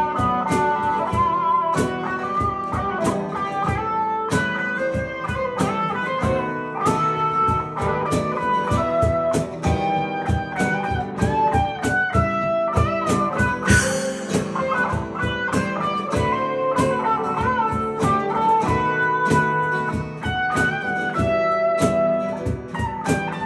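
Guitar playing an instrumental break: a steady stream of plucked notes and melodic lines over held chords, with a short hiss about fourteen seconds in.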